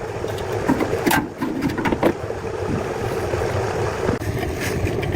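Truck engine running steadily, with scattered clicks and knocks over it.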